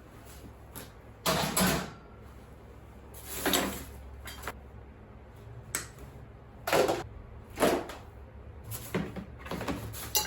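Household items being handled and set down while sorting: about seven irregular knocks and clatters, spread out over a low steady hum.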